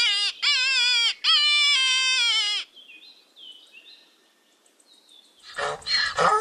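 Rabbit squealing: three high-pitched cries in quick succession, each falling in pitch. A jumble of louder, rougher sounds begins near the end.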